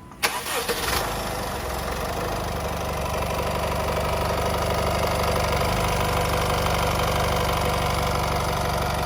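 The 1.6-litre turbo diesel engine of a 2018 Honda CR-V starting with a sudden burst about a quarter second in, then idling steadily.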